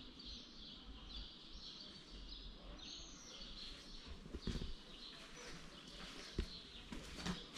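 Faint birdsong drifting in, with short chirps on and off throughout, and a couple of soft knocks about halfway through and near the end.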